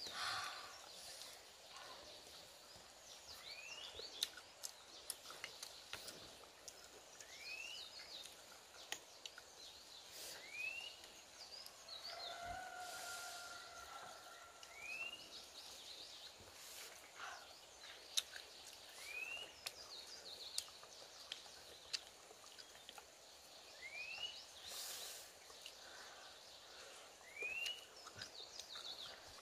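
A bird calling over and over, a short upward-sweeping note about every four seconds, with a forest background. Scattered close clicks and a few short slurps come from snails being handled and eaten.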